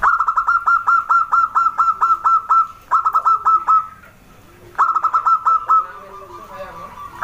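Zebra dove (perkutut) calling: rapid runs of short, clear cooing notes at about four a second, in three bursts with brief pauses between them.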